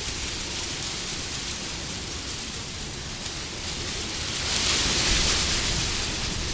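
Wind blowing steadily, with a gust swelling about two-thirds of the way in and easing off near the end.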